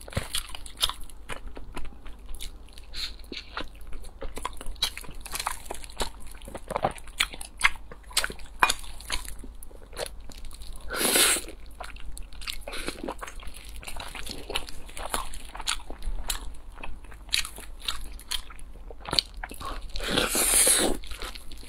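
Close-miked eating sounds: biting into and chewing a soft filled bun dipped in creamy sauce, with many small wet mouth clicks and smacks. There are two longer, louder sounds, one about halfway through and one near the end.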